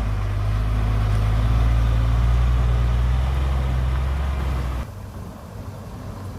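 Excavator's diesel engine running steadily with a deep, even drone. About five seconds in the sound drops abruptly to a quieter, rougher low rumble.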